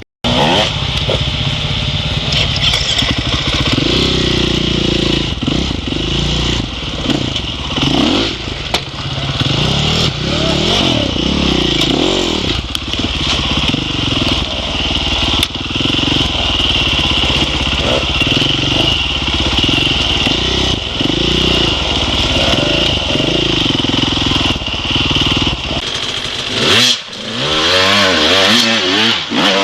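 Dirt bike engine revving, its pitch rising and falling repeatedly as the throttle is worked, with a steady hiss above it. It starts suddenly, and the sound shifts near the end.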